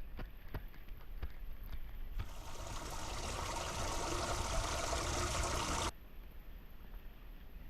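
Floodwater rushing and gurgling into a storm drain, starting about two seconds in and cutting off suddenly near six seconds, after a few light knocks.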